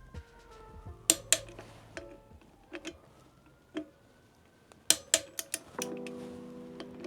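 Sharp metal clicks and clinks of a torque wrench and socket as the wheel's nuts are tightened. There are a pair about a second in, single clicks around the middle, and a quick run of four or five near the end, over background music.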